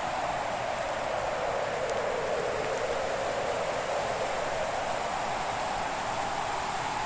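Fireplace ambience: a steady hiss of burning fire, its pitch drifting slowly lower and then back up, with a few faint crackles.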